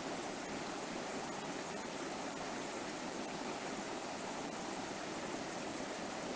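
River water flowing and splashing steadily over rocks, a continuous even rush.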